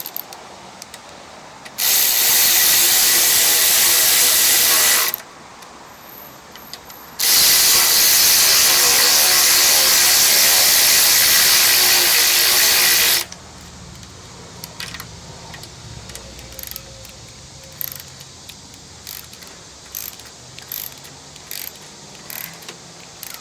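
Pneumatic air ratchet run in two bursts, about three and six seconds long, driving down the carburetor mounting bolts on a Briggs & Stratton engine, followed by light clicks of tools and parts being handled.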